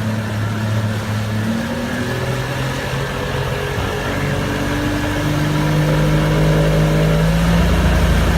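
Boat motor running under way over a steady rush of wind and water noise, its pitch climbing in steps as the throttle is opened.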